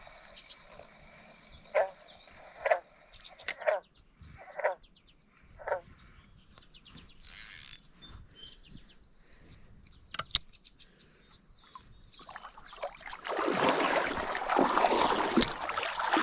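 Creek water splashing and sloshing for the last few seconds, the loudest sound here. Earlier there are five short chirp-like calls about a second apart over a quiet creek background.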